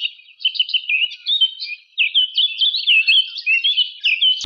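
Small birds chirping in a quick, unbroken run of short swooping calls, a clean recording with no other sound behind it.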